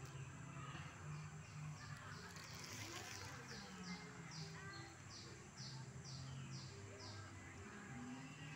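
A small bird calling, repeating a short high note that slides downward, about two to three times a second for several seconds through the middle, over a faint low background.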